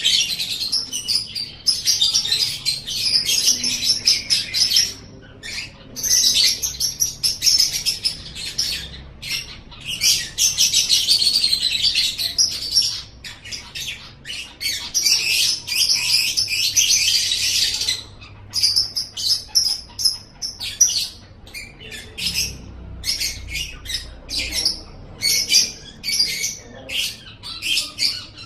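Lovebird singing: long, rapid, high-pitched chattering trills in runs of several seconds with brief pauses, breaking into shorter separate chirps in the last third.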